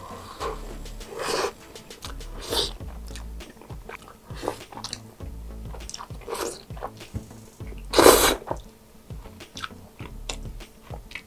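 Close-miked chewing and slurping of stretchy melted mozzarella and pizza toppings: irregular wet mouth noises, the loudest about eight seconds in.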